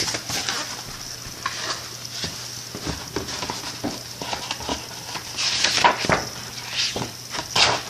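Paper rustling and handling noise, irregular crackles and soft clicks as the pages of a picture book are handled and turned, over a faint steady low hum.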